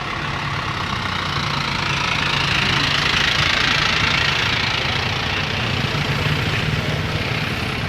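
A motor vehicle's engine running steadily with a low hum, the engine and road noise growing louder about three seconds in and then easing off slightly.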